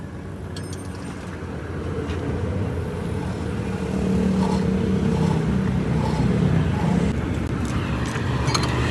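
Road traffic passing: a motor vehicle's engine hum and rumble that swells about four seconds in and eases off near the end, with a few faint metallic clicks.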